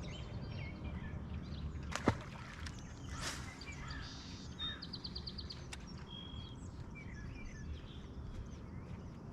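Birds chirping and calling, with a short buzzy trill near the middle, over a steady low hum. A sharp click about two seconds in is the loudest sound.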